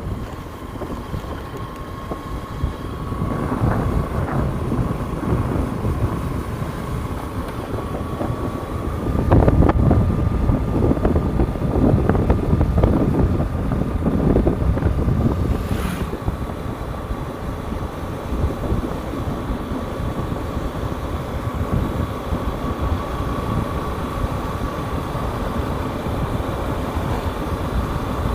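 Hero Hunk's single-cylinder motorcycle engine running steadily while riding, with wind buffeting the microphone, heaviest in gusts about a third of the way in. A single short click comes a little past the middle.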